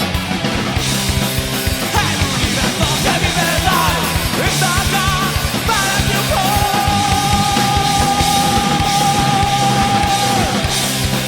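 Heavy metal song with fast drumming and distorted guitars playing a low riff. About halfway through, a high note is held for about four seconds before it drops away.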